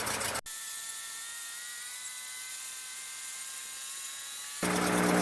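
A steady high-pitched electrical whine of several fixed tones in a Cessna 152 cockpit, after an abrupt cut from the running engine about half a second in. Near the end a louder low hum comes in suddenly.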